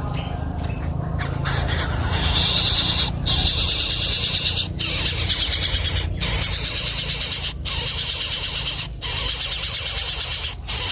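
Nestling birds giving harsh, rasping begging calls. They start about two seconds in and come in runs of about a second and a half with short breaks between, over a low rumble.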